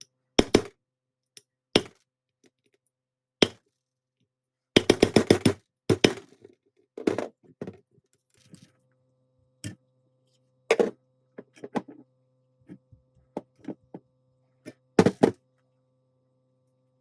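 Metal tool parts and hand tools knocking and clinking on a workbench as the nail gun is worked on, in separate sharp knocks with a quick run of clicks about five seconds in. A faint steady hum starts about eight seconds in.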